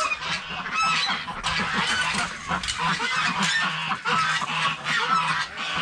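A flock of chickens and ducks calling all at once, many short overlapping clucks and honking calls in a busy chatter.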